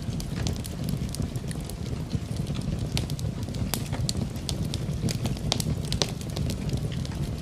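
Wood fire in a fireplace crackling, with irregular sharp pops several times a second over a steady low rushing background of rain.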